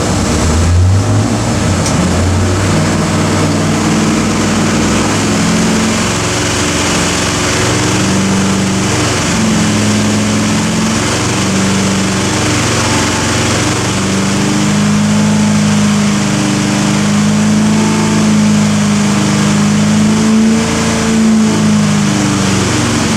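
383 Chevy small-block stroker V8 running on an engine dyno without load, its revs stepping up and down as it is held above idle to warm the oil before a power run.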